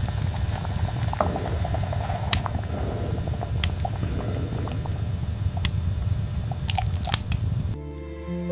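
Pot of soup bubbling on the stove: a dense low bubbling with scattered pops, cutting off suddenly near the end.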